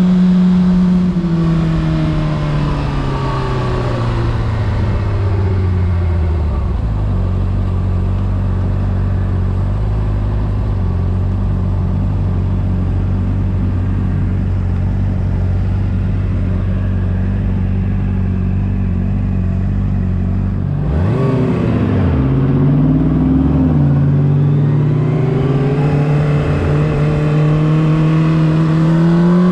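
Honda CBR600RR inline-four engine winding down from speed over the first few seconds and settling into a steady low idle. About two-thirds of the way in it gives a quick throttle blip, then pulls away with its pitch climbing steadily as the bike accelerates.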